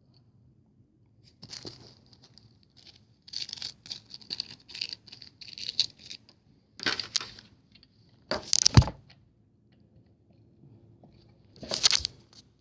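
Packaging being handled: irregular bursts of rustling and tearing, the loudest a little over halfway through and another near the end.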